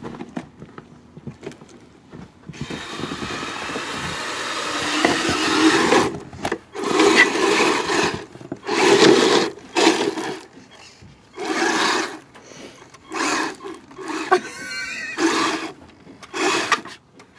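Kyosho Blizzard RC snow vehicle's electric drive and tracks whirring, starting a few seconds in and then going in short on-off throttle bursts, roughly one every second or so.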